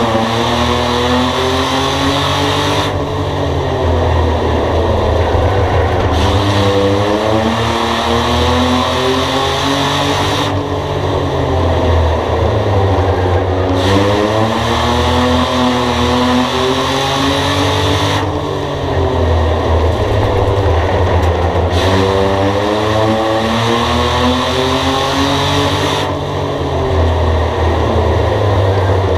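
A race car engine running hard around a short track. It revs up and eases off in a repeating cycle about every eight seconds, rising on each straight and falling back for each turn.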